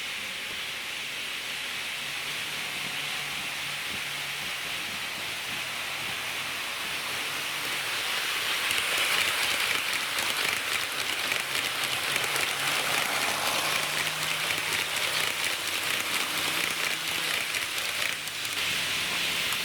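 HO-gauge model diesel railcar running on track: a steady rolling hiss from metal wheels on rail with a faint motor hum, growing louder about eight seconds in as dense fine clicking sets in, then briefly dipping near the end.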